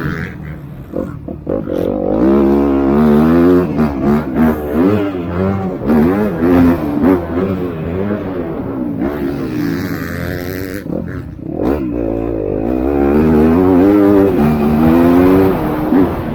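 Motocross bikes racing, their engines revving up and down over and over as the throttle is worked and gears change. The engine note dips for a moment past the middle, then builds again and stays loud toward the end.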